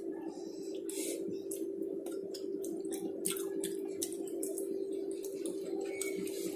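Wet chewing and lip-smacking clicks from a person eating with their fingers, with light scrapes of fingers against a stainless steel bowl, over a steady hum.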